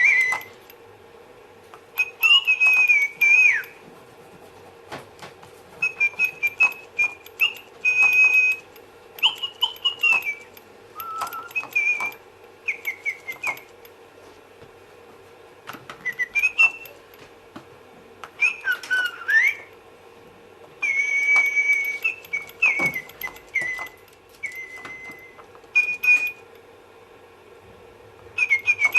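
Interactive Lil' Bird Tweeterina toy bird chirping and whistling in short electronic phrases, some notes gliding up or down, with pauses of a second or two between phrases.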